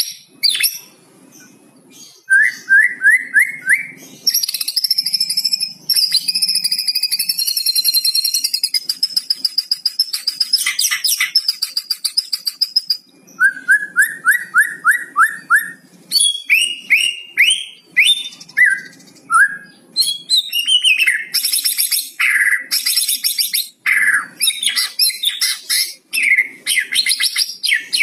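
White-rumped shama (murai batu) singing and chattering at full volume. It gives runs of quick rising notes a little over two seconds in and again around thirteen seconds, a long trilled, buzzy phrase between them, and sharp, varied whistles and chatter in the second half: the agitated 'kretekan' rattling song used to provoke other shamas into singing.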